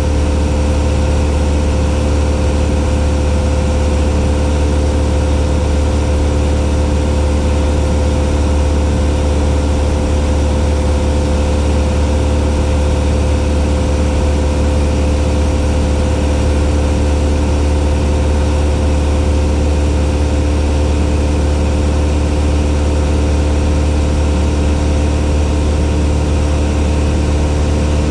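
Cessna 172's piston engine and propeller running at a steady, unchanging speed, with a strong low drone.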